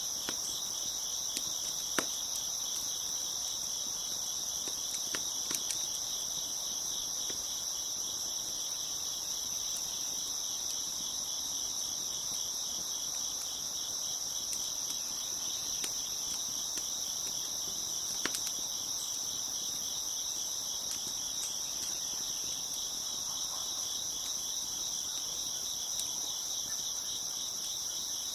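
Dense chorus of crickets chirping steadily, with a few sharp crackles from a wood fire, the loudest about two seconds in and again near eighteen seconds.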